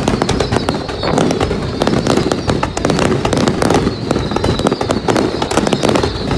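Fireworks going off in a rapid, continuous barrage of sharp cracks and pops.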